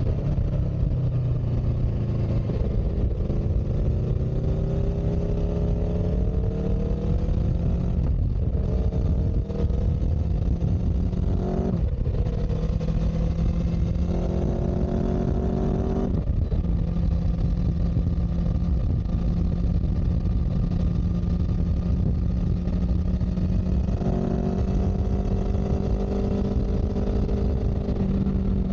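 A motor vehicle engine under way, its pitch climbing and then dropping sharply at gear changes three times in the first half, then running steadily with a small step up near the end, over a constant low rumble.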